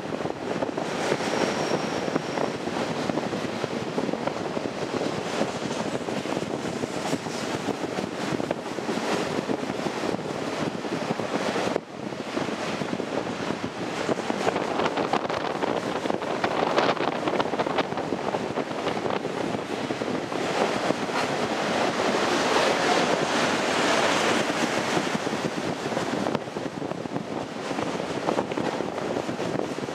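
Union Pacific autorack freight cars rolling past on curved track: a steady rushing clatter of steel wheels on rail that swells and eases as the cars go by, with a brief faint high squeal about a second in.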